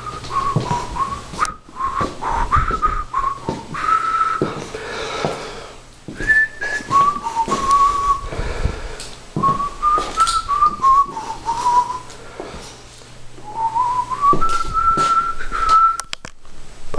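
A person whistling a tune in held notes and small steps, broken by short pauses, with scattered clicks and knocks underneath.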